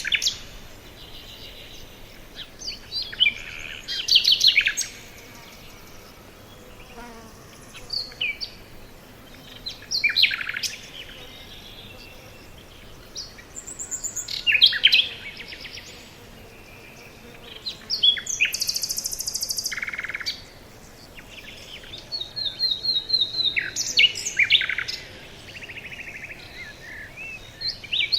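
Forest birds singing: short, high, chirping phrases and trills every few seconds, from more than one kind of bird.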